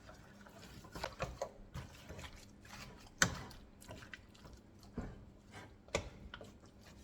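A spoon stirring raw chicken with seasonings in a pot: irregular wet scraping and knocks of the spoon against the pot, the sharpest about three seconds in.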